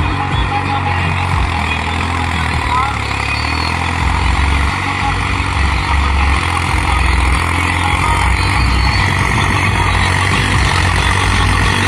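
New Holland 3630 tractor's three-cylinder diesel engine running steadily under load while pulling a cultivator.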